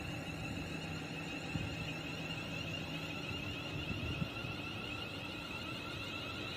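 Class 350 Desiro electric multiple units pulling out, giving a steady high-pitched electrical whine over a low running rumble.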